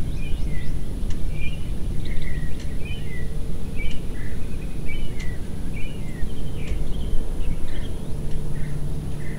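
Birds chirping in many short, quick calls over a loud, steady low outdoor rumble.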